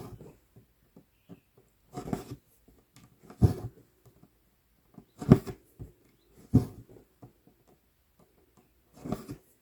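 Size 24 tapestry needle pushed and pulled through stretched 11-count Aida cloth, each stitch a soft tap with a short drag of floss. About six stitches come a second or two apart.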